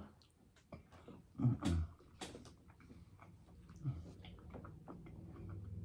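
Close-miked mouth sounds of eating: chewing with many small wet clicks and lip smacks, and a brief murmured 'mm' about one and a half seconds in.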